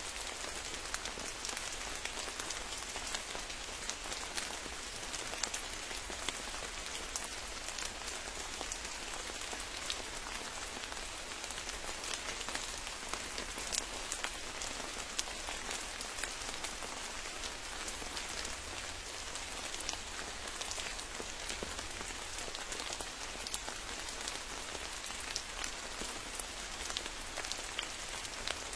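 Steady rain: an even hiss dotted with many close, sharp drop ticks, unchanging throughout.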